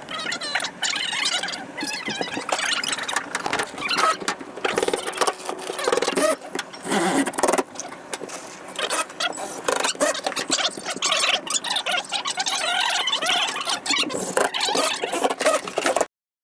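A glue spreader scraping and squeaking across a panel in quick strokes, then cutting off suddenly near the end.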